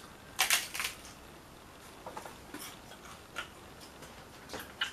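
Person biting and chewing a crunchy taco shell: a loud cluster of crunches about half a second in, then scattered single crunches as she chews.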